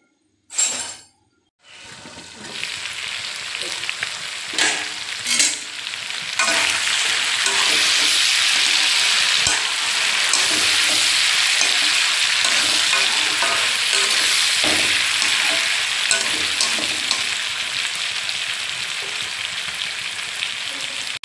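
Chicken and potato pieces sizzling loudly in a kadhai as they are stirred with a slotted metal spatula, with small clicks and scrapes of the spatula against the pan. The sizzle starts after a brief noise near the start and builds over the first few seconds, then holds steady.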